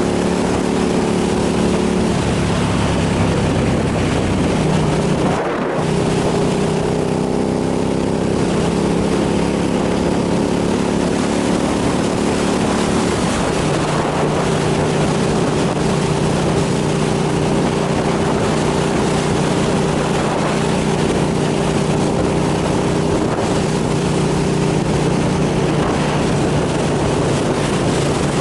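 Motorcycle engine running under way, its note shifting in pitch a few times, with a brief break about five and a half seconds in, and wind noise buffeting the microphone.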